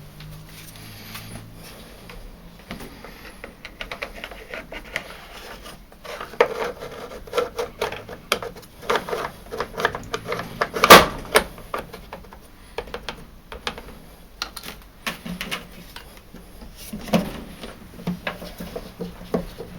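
Parts of a tumble dryer's condensate pump assembly being handled: a run of short clicks and knocks that starts about six seconds in, with one louder knock near the middle.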